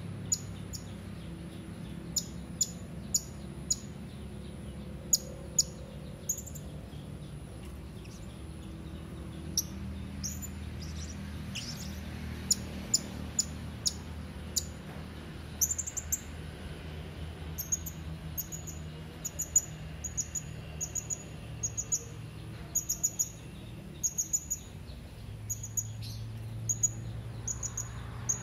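Blue-crowned hanging parrot (serindit) giving short, shrill, high-pitched call notes. They are scattered at first, then come in quick runs of several a second from about halfway, over a steady low hum.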